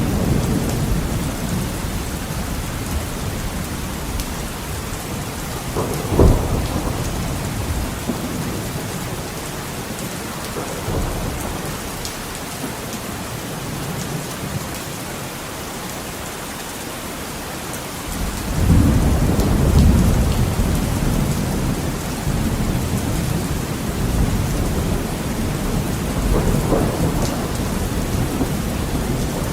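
Heavy rain on a window with thunder: a steady hiss of rain, a sharp thunderclap about six seconds in, and a long low rumble of thunder a little past the middle, swelling again near the end.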